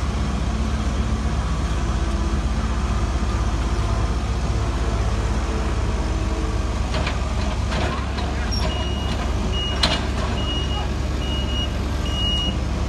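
Heavy diesel construction machinery running steadily, with a few sharp metal knocks. About two-thirds of the way in, a reversing alarm starts beeping about twice a second.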